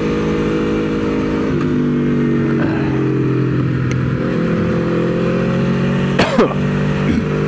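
Aprilia Tuono V4's V4 engine running on the throttle around a track, heard from the bike over wind rush. Its pitch drops in two steps about one and a half and two and a half seconds in, then slowly rises again. About six seconds in there is a short sharp crack.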